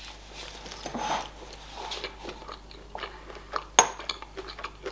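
Close-up chewing of crispy KFC spicy fried chicken wing, scattered small crunches and mouth clicks, with one sharp crackle a little under four seconds in.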